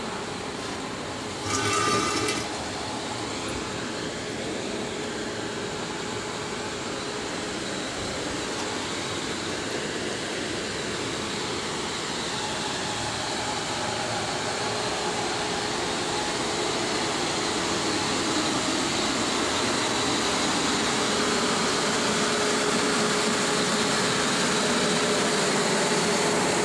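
Steady mechanical running noise of heavy machine-shop machinery, slowly growing louder, with a brief high-pitched squeal about two seconds in.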